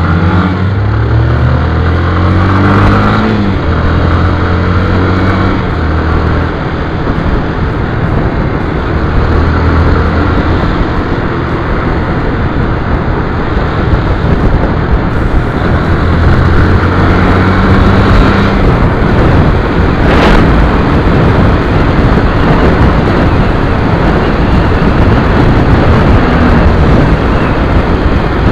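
Motorcycle engine running while riding, rising in pitch as it accelerates near the start and again about midway, under heavy wind rush on the microphone.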